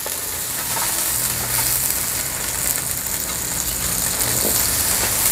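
Green and red chillies and shallots sizzling steadily as they fry in oil in a black wok, stirred with a perforated metal skimmer that clicks now and then against the pan.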